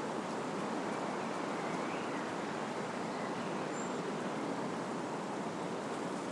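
Wind blowing through trees, a steady rushing of leaves and branches that holds an even level throughout. A faint brief high whistle sounds about four seconds in.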